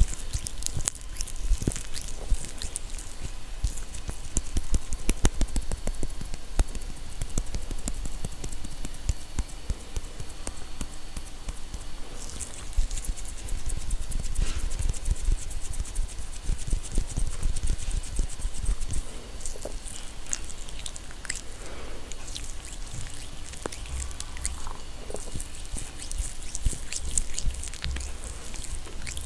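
Close-miked ASMR trigger sounds: dense, fast crackling and clicking with wet, squishy touches, going on steadily.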